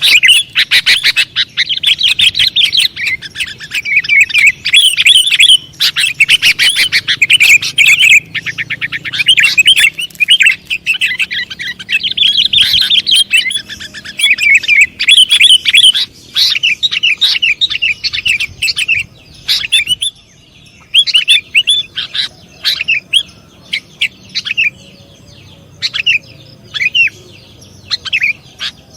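Sooty-headed bulbul calling: a dense, rapid run of bright chirps that thins out to scattered chirps about two-thirds of the way through.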